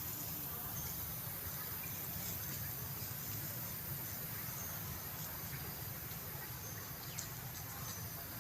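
Outdoor ambience: a steady, high-pitched insect drone over a low, constant rumble, with a few faint ticks.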